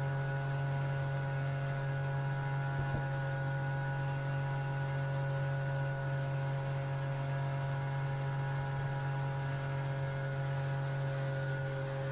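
Steady drone of a jet boat's outboard motor running at constant speed, an even hum with no change in pitch.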